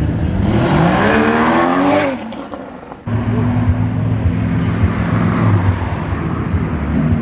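Car engine revving hard as the car accelerates away, its pitch rising for about two seconds and then fading. From about three seconds in, an engine rumbles steadily at low revs.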